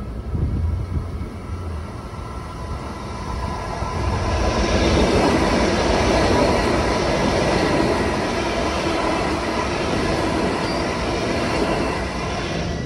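Long Island Rail Road train passing on the tracks: the rush of wheels on rail builds from about four seconds in, is loudest in the middle and eases toward the end, over a steady high-pitched whine.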